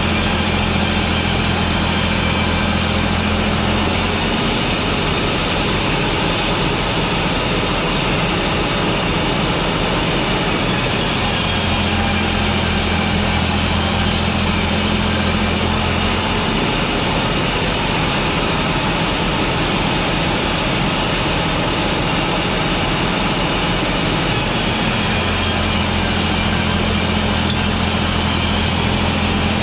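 Sawmill machinery running steadily while a saw cuts timber into slabs in repeating passes. Each pass lasts about four to five seconds, comes round about every thirteen seconds, and adds a low hum and a higher hiss over the constant running noise.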